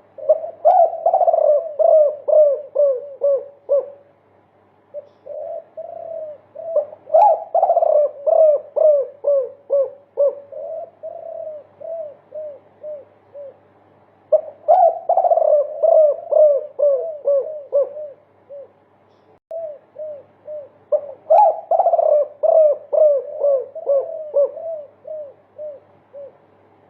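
Derkuku (spotted dove) cooing in a multi-kuk song. Four phrases come about seven seconds apart, each a long run of quick, repeated coos that starts loud and tails off more softly.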